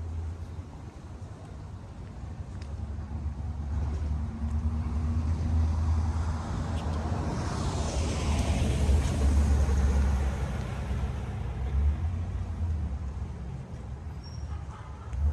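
A car driving past on the street: its tyre and engine noise swells to a peak about eight seconds in, then fades. A low rumble runs underneath throughout.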